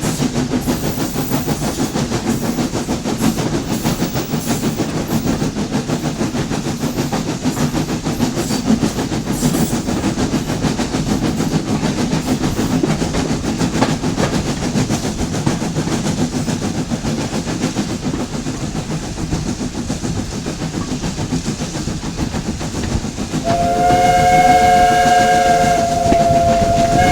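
A steam train running, with a steady rumble and rattle of the carriages on the track. Near the end the whistle sounds one long blast of several notes together.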